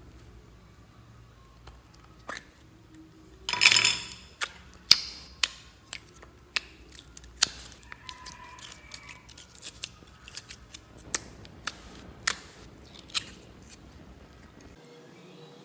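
Slime being pressed and worked by hand, giving a string of sharp, irregular clicks and pops, with a louder crackling burst about four seconds in.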